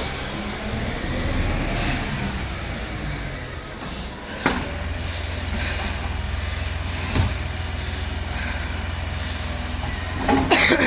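Refuse collection truck's engine running steadily, with two sharp knocks in the middle and a louder short burst of clattering noise near the end.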